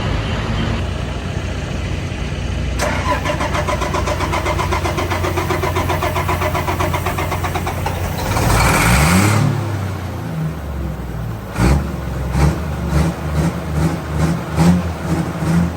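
An engine running steadily, with a brief rising rev about eight to nine seconds in. From about twelve seconds it settles into a low, rhythmic pulsing about twice a second.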